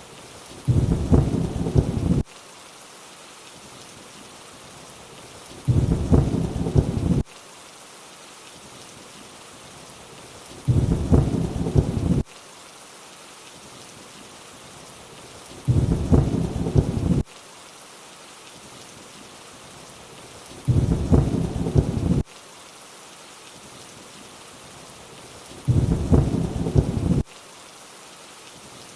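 Steady rain with a short low rumble of thunder about every five seconds, six times. Each rumble lasts about a second and a half and starts and stops abruptly, like a repeating loop, and is the loudest thing heard.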